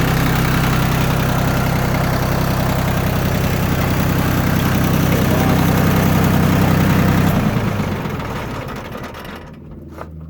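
Yanmar F16D compact tractor's diesel engine idling steadily, an engine the owner says sounds good. It dies away about eight seconds in, with a few faint clicks after.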